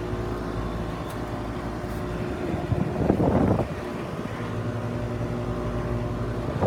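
Steady hum of running central air-conditioner condensing units, a layered drone of fixed tones. A brief louder rumble, like wind on the microphone, comes about three seconds in.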